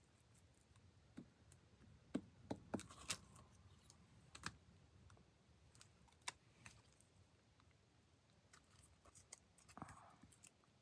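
Faint scattered clicks and light taps of paper pieces and craft materials being handled and set down on a work table, a few close together about two to three seconds in, then single ones.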